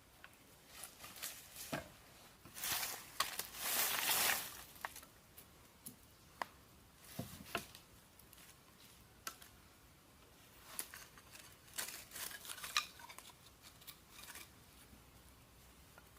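Intermittent light handling noises: scattered sharp clicks and short crisp scraping or rustling bursts, the longest and loudest a little under four seconds in.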